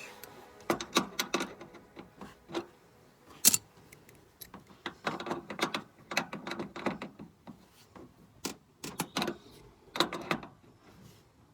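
Irregular clicks, taps and knocks of hand tools and metal fittings being handled during air-conditioner installation work, some in quick clusters with short quiet gaps between.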